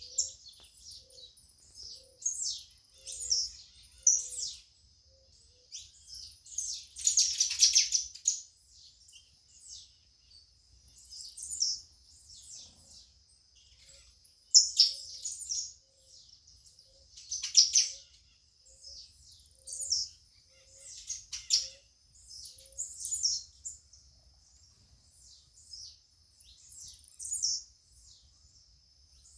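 Songbirds chirping in short, high, repeated phrases every second or two, with a louder burst of calls about seven seconds in. A faint steady high-pitched tone runs underneath.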